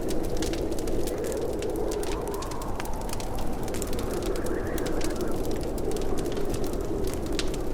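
Wood fire in a fireplace crackling, with many small sharp pops scattered over a steady low rush of burning.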